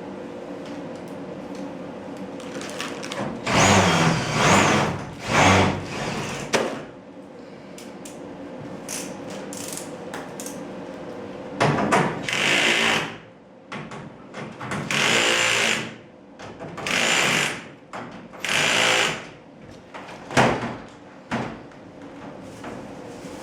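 Cordless screw gun driving screws in a series of short bursts, each about a second long or less, with pauses between, over a steady low hum.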